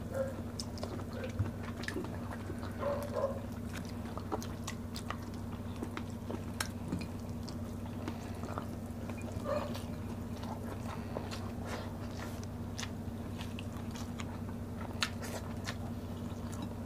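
Close-up chewing and mouth sounds of people eating rice and sautéed bitter gourd with their hands: many small, irregular clicks and smacks over a steady low hum.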